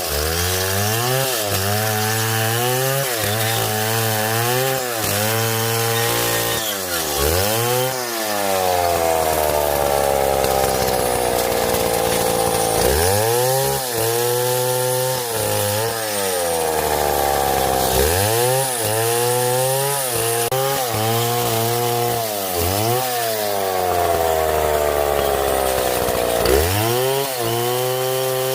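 Chainsaw engine revving up and down over and over as it cuts, its pitch climbing and sagging every second or so, and twice dropping away slowly as the throttle eases off.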